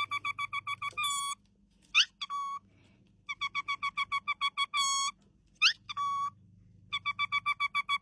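A high-pitched beeping tune repeats: a fast run of short beeps, a held note, a quick rising chirp, then another held note. The phrase comes round about every three and a half seconds, starting a third time near the end.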